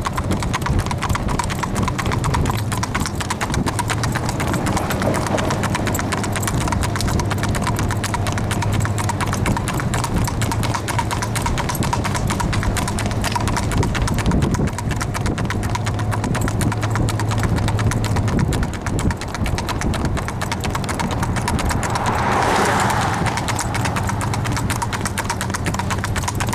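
Standardbred stallion's hooves clip-clopping in a fast, even rhythm at speed, with a steady low hum underneath.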